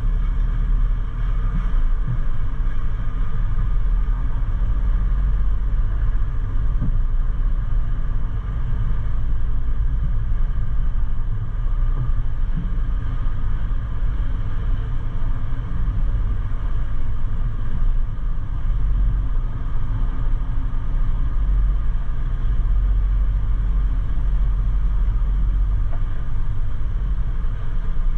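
Container truck's diesel engine and running gear giving a steady low rumble.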